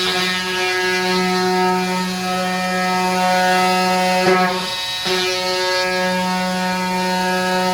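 Handheld power tool running with a steady buzz while cutting back the edge of a vinyl plank, dipping briefly twice around the middle.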